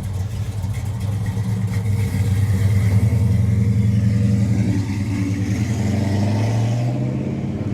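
Car engine running low and steady as the car pulls out, getting somewhat louder a couple of seconds in.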